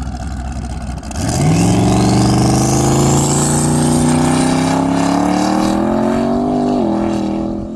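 Race car launching and accelerating hard, its engine note climbing steadily in pitch for several seconds, with a high whine rising alongside. Near the end the pitch drops suddenly at an upshift and starts climbing again.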